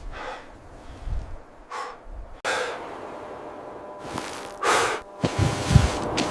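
A person breathing hard: several separate sharp gasps and heavy exhalations, with a few low thuds near the end.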